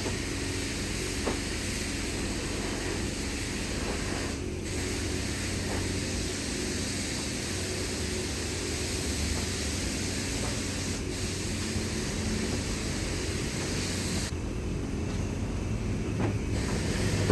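Vehicle engine running steadily, a low hum with a constant noise over it.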